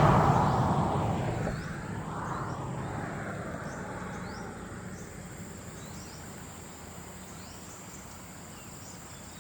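A passing vehicle fades away, leaving a steady high-pitched insect drone with short rising chirps repeating about once a second.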